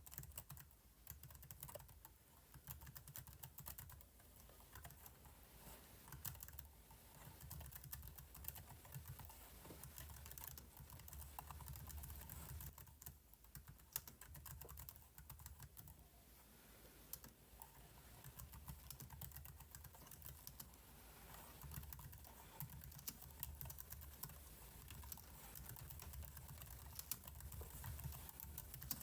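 Computer keyboard keys clicking in quick, irregular runs of keystrokes, faint.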